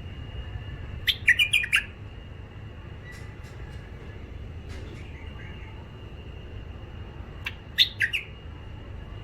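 Bulbul singing: a burst of quick chirping notes about a second in and another near the end, with fainter notes between.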